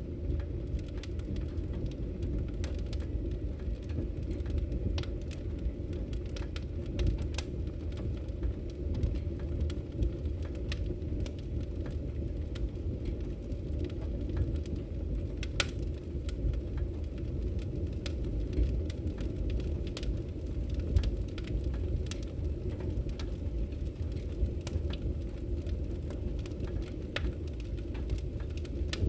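Wood fire crackling in a fireplace: a steady low rumble of burning with irregular sharp pops and crackles scattered throughout.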